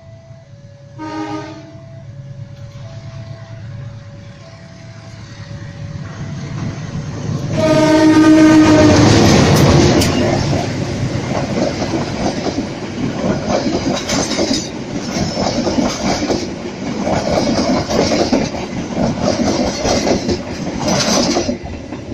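Level-crossing warning alarm alternating between two tones, with a short train horn blast about a second in. Around eight seconds in a longer horn blast sounds and a diesel-hauled passenger train passes close by, loud at first, its wheels clacking rhythmically over the rail joints until it fades near the end.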